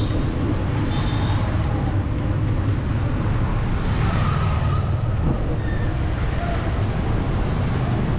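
Busy city street traffic: a steady low rumble of passing vehicle engines and tyres, with a few brief high-pitched tones near the start and about a second in.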